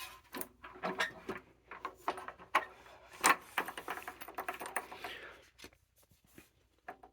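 Handling noises: a run of irregular knocks, clicks and rubbing as an old vacuum cleaner's sheet-metal fan housing is turned over and a tape measure is set against its underside, with a short sliding scrape about five seconds in.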